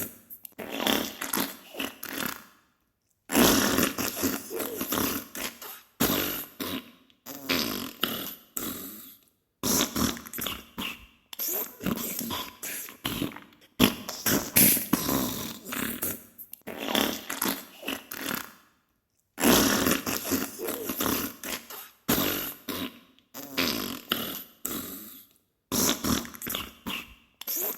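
Diarrhea sound effect: wet, sputtering fart noises in repeated bursts of a second or two, each breaking up into rapid spluttering and separated by brief silences.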